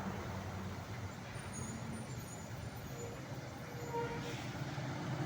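Truck engine running, its low hum fading over the first second, then faint road noise.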